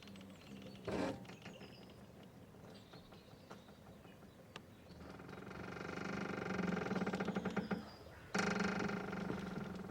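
A boat's rope creaking under strain as the boat moves: quiet at first with one short creak about a second in, then a long, slowly swelling creak from about five seconds that breaks off near eight seconds, with another starting just after.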